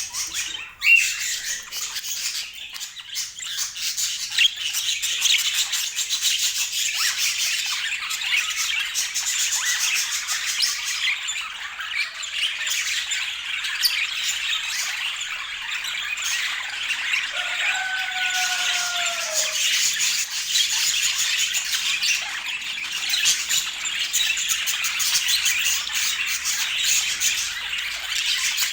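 Budgerigars chattering and squawking in a continuous stream of scratchy chirps, with a lower falling call about two-thirds of the way through.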